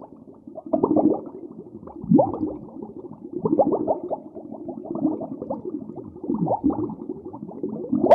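Animals calling: a dense, continuous run of short, low calls, several sliding down in pitch, sounding dull and muffled.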